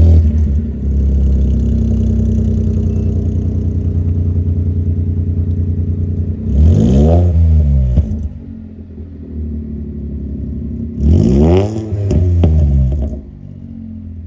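Cold start of a VW up! MPI's naturally aspirated 1.0 three-cylinder engine, Stage 2 with catless downpipe and sport exhaust: it catches with a loud flare, then settles into a steady idle. The throttle is blipped twice, about six and eleven seconds in, revs rising and falling each time.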